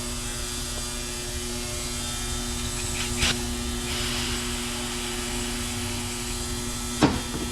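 Steady electrical hum throughout, with two sharp clicks from small parts being handled: a light one about three seconds in and a louder one just before the end.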